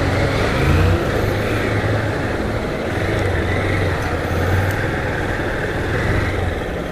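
Motorcycle engine running steadily while riding, its low hum rising and falling a little with the throttle, under a steady rush of wind noise on the microphone.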